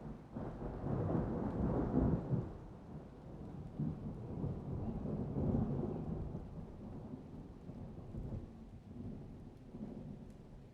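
Thunder rolling: a low rumble that breaks in suddenly, is loudest about two seconds in, then keeps rumbling in waves as it slowly fades.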